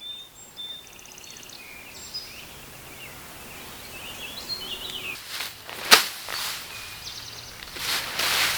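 Outdoor woodland ambience with birds chirping and trilling, a sharp click about six seconds in and some rustling near the end.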